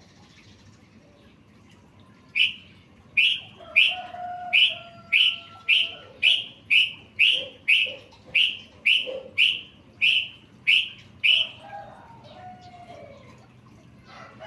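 Songbird recording: a sharp chirping call repeated about sixteen times, roughly every half second, with softer whistled notes underneath. The calls begin a couple of seconds in and stop a few seconds before the end.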